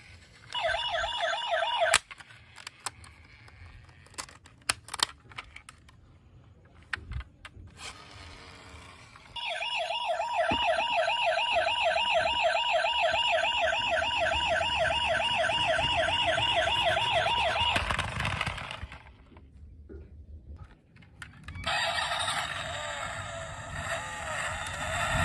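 Electronic siren of a toy emergency vehicle, a fast warbling wail. It sounds briefly near the start, then again for about eight seconds from about nine seconds in. Between the two, light plastic clicks and knocks are heard, and near the end a different electronic toy sound starts.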